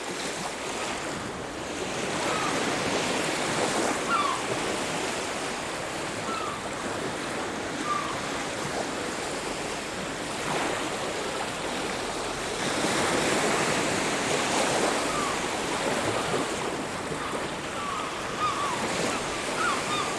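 Ocean surf washing onto a beach: a steady rush of water that swells as waves break, about two seconds in and again about twelve seconds in. Brief bird calls come now and then over it.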